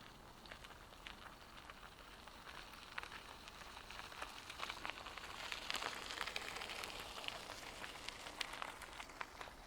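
Crunching of footsteps on a gravel trail: a dense crackle of small irregular clicks that grows louder and busier about five seconds in, then eases off near the end.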